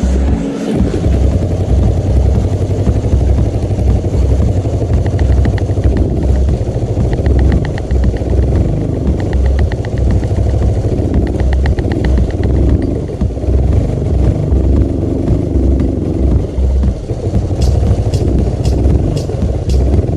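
Small single-cylinder pit bike engine running, its low exhaust pulse uneven and unsteady. A quick run of light clicks comes in near the end.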